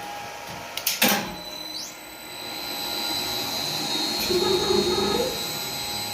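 An elevator starting up after its controller is reset: a sharp clunk about a second in, then a steady whirring with a high whine that swells as the lift gets moving.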